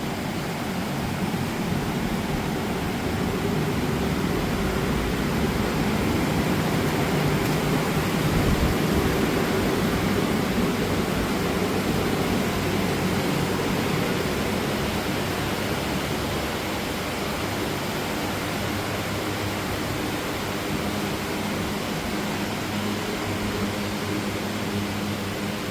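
Several electric fans running steadily, blowing air to dry a freshly applied underbody anti-rust coating, a wide rushing noise with a low hum under it.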